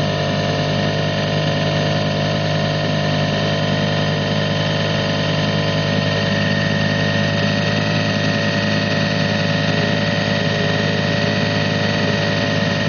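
1957 British Seagull model 102 single-cylinder two-stroke outboard motor (3.5 hp) running at a steady speed, its pitch constant throughout.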